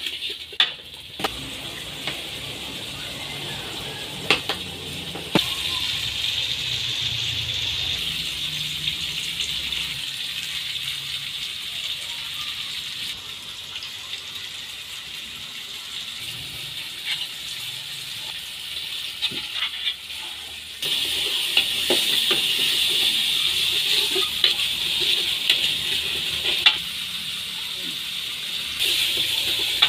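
Chilli sambal sizzling in an aluminium wok, with a few clinks of a metal spoon stirring it against the pan. The sizzle gets louder about five seconds in and again at about twenty seconds.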